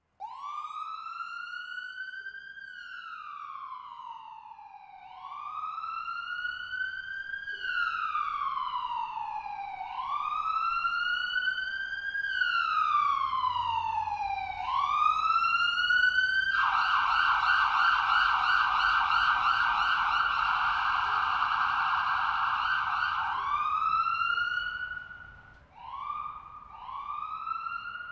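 Electronic emergency-vehicle siren: a wail that rises and falls slowly, about one cycle every five seconds, switches about 16 seconds in to a fast warbling yelp, then returns to a wail and ends with a few short rising whoops.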